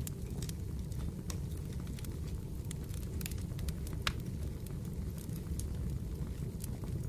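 Wood fire in a fireplace crackling: a steady low rumble with irregular sharp pops and snaps, the loudest about four seconds in.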